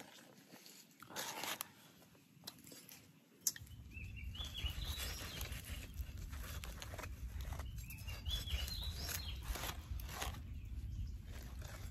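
A large knife cutting up a whole grilled chicken on a banana leaf: a string of short crackles and taps as the blade goes through the crisp skin and meat, with birds chirping in the background. A low steady rumble sets in a few seconds in.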